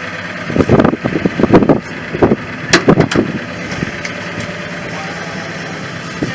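1964 Ford truck engine idling steadily, with a run of loud handling thumps and knocks in the first few seconds, including one sharp click just under three seconds in.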